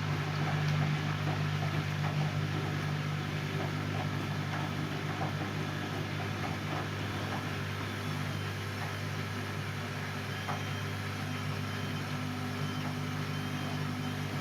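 Siemens Siwamat C10 washing machine running, its motor giving a steady low hum with faint scattered ticks.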